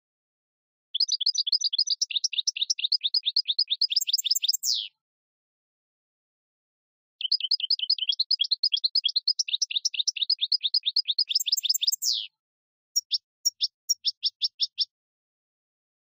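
Bird song: two phrases of rapid high chirps, about eight a second, each lasting about four seconds and ending in a quick downward sweep, then a short run of separate chirps near the end.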